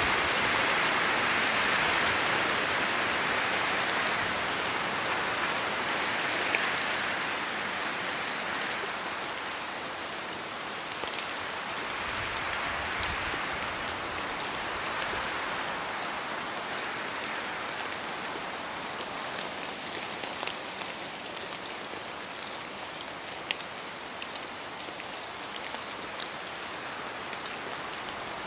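Steady rain falling, with scattered sharper drop ticks. The rain is loudest at the start and eases off over the first ten seconds or so.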